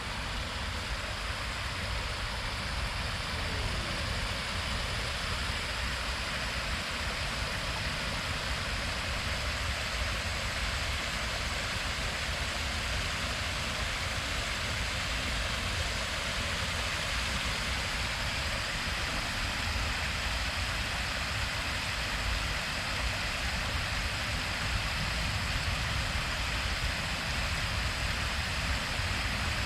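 Steady rushing outdoor noise in wet weather, with a deep rumble underneath and no separate events.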